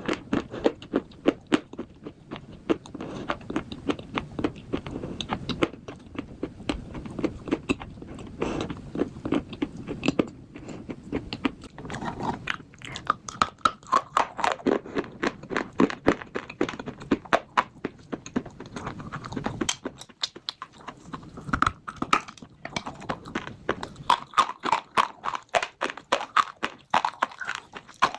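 Slate bars being bitten and chewed close to the microphone, a steady run of sharp, rapid crunches.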